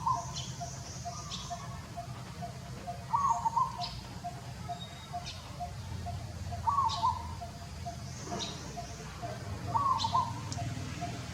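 Birds calling outdoors: a short call of a few notes repeats about every three seconds, with quick high chirps and a fast, even pulse of notes between them, over a steady low rumble.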